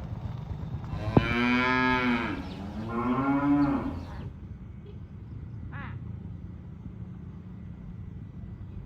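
Cattle mooing: two long moos back to back, starting about a second in, with a sharp click just as the first one begins.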